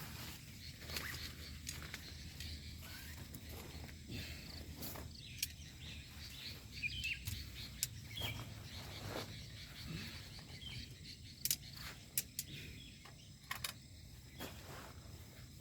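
Night-time outdoor ambience: faint short chirps, likely insects, over a steady low rumble, broken by irregular sharp clicks and crackles.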